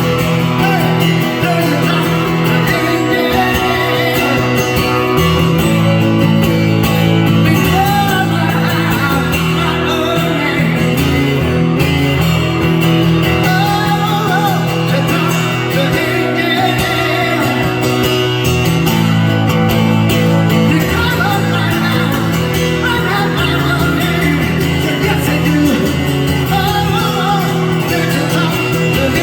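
A live rock band playing: guitars and bass, with a singer's voice over them.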